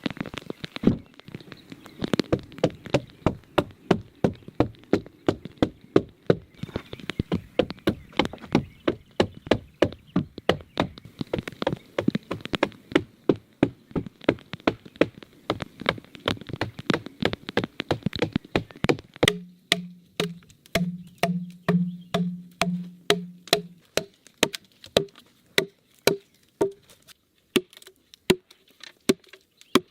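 A hand tool striking wood over and over in log-cabin work: a quick, even run of sharp knocks, about four a second. About two-thirds of the way in the blows turn lighter and sparser, and a low pulsing hum runs under them for a few seconds.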